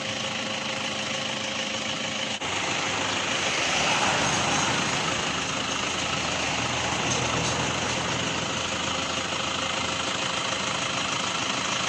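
Steady machine running noise with an even hiss, broken by a short dip about two seconds in.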